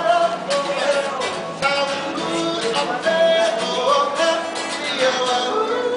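A subway busker singing a song, with instrumental accompaniment.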